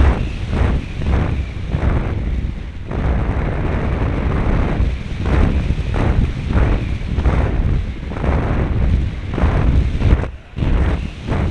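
Wind buffeting the microphone of an RC airplane's on-board camera in flight: a loud low rumble of rushing air that pulses about twice a second and dips briefly near the end.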